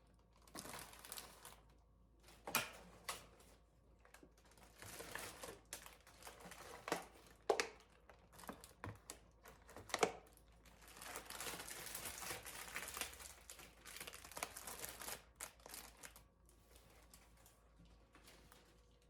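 Irregular light clicks, taps and rustling, the sound of small objects being handled, with a longer stretch of rustling from about eleven seconds to fifteen seconds in.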